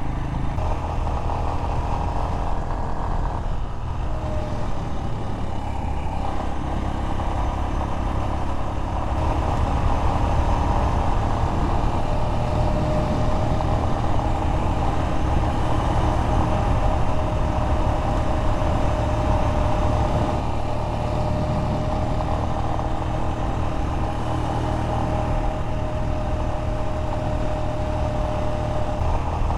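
Royal Enfield Himalayan single-cylinder motorcycle engine running steadily while the bike is ridden, with a constant rumble and road and wind noise.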